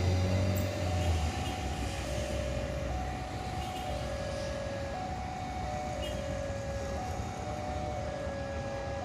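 A passing train's rumble dies away in the first second or so, leaving an electronic two-tone warning alarm that alternates between a high and a low note about once a second.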